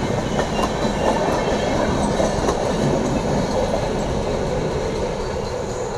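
Express passenger train's wheels running over the track: a steady rumble and clatter that fades slightly near the end.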